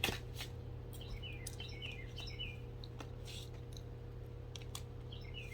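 A small bird chirping in a quick run of short, falling chirps over a steady low hum, with a few brief soft rustles.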